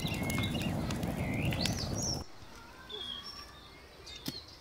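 Small birds chirping over a steady rushing noise that cuts off suddenly about two seconds in. After that it is quieter, and a single sharp knock near the end is a hatchet striking a piece of wood.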